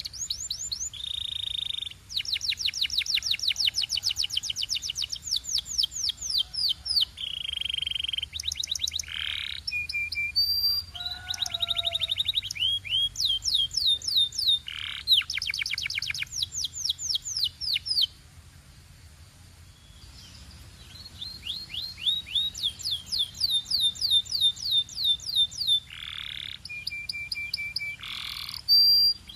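Canary singing: fast trills of rapidly repeated falling notes in phrases of a few seconds, mixed with short held whistles, with a brief pause about two-thirds of the way through.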